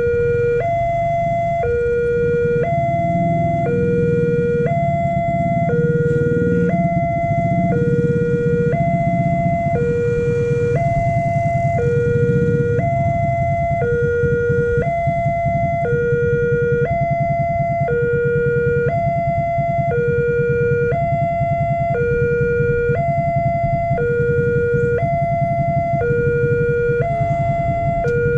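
Railway level-crossing warning siren alternating between a low and a high tone, each held about a second, over a low rumble that is loudest in the first half.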